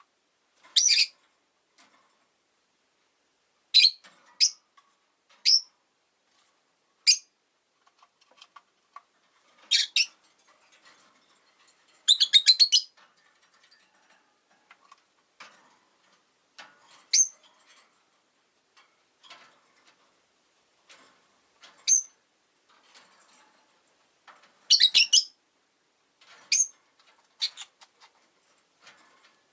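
Rosy-faced lovebirds giving sharp, high-pitched call notes every few seconds, with softer chirps in between. About twelve seconds in comes a quick run of notes.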